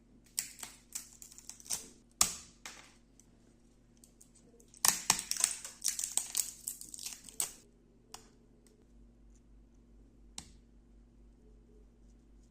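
Freshly 3D-printed gray PLA part being handled and snapped free, with sharp plastic clicks, snaps and crackles in two flurries, the loudest snap about two seconds in. A single click comes near the end, over a faint steady hum.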